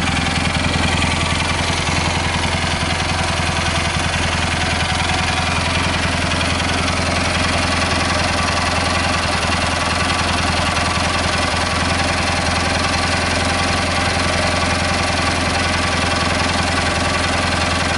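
Cub Cadet 1811 garden tractor engine running steadily at an even speed, with no revving.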